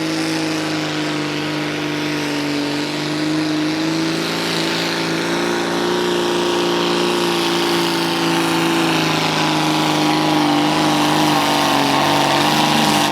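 Naturally aspirated pulling-tractor engine held at full throttle through a pull, with a steady high-rpm note that rises a little midway and eases slightly near the end.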